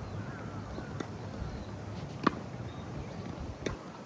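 Tennis ball struck by rackets in a volley exchange: a sharp pock about two seconds in, with fainter hits about a second in and near the end.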